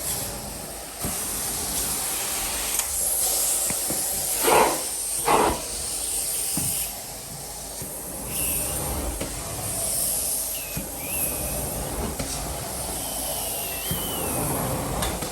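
Carpet-cleaning equipment hissing steadily, with two short, loud spray-like bursts about four and a half and five and a half seconds in.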